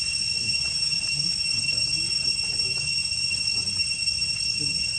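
A steady high-pitched drone made of two constant tones, with faint short rising chirps over it and a low indistinct murmur underneath.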